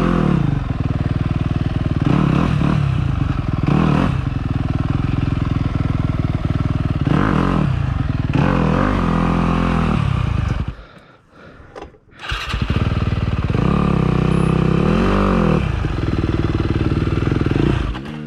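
Dirt bike engine on a trail ride, revving up and down through the throttle. About eleven seconds in, the engine sound drops away for a second or so, then picks up again.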